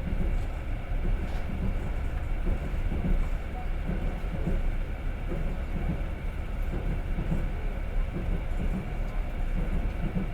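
Passenger train running along the line, heard from inside the carriage: a steady rumble of wheels on the rails.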